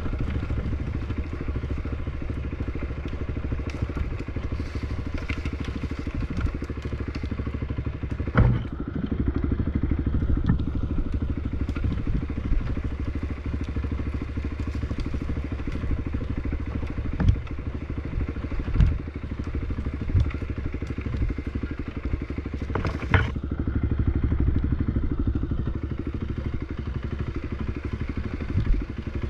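Off-road bike engine running steadily under way on a trail, with several sharp knocks and thumps from the ride over rough ground.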